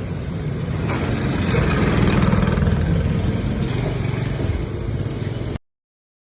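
An engine running with a fast, even pulsing rumble that swells louder about two seconds in and then eases off; the sound cuts off abruptly near the end.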